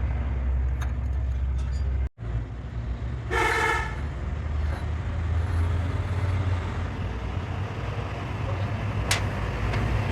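A vehicle engine running with a steady low rumble, a brief break in the sound a couple of seconds in, then a single short horn toot of about half a second. A sharp click comes near the end.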